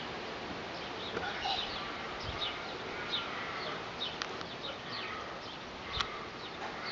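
Small birds chirping outdoors: many short, falling chirps over a steady background hiss, with two sharp clicks about four and six seconds in.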